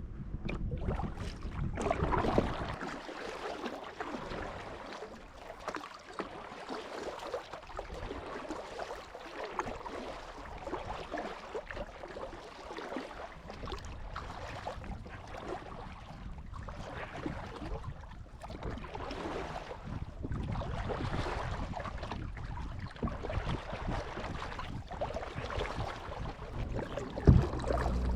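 Water splashing and lapping around a kayak as it is paddled, the sound swelling and fading with the strokes, with wind buffeting the microphone. There is a brief sharp thump near the end.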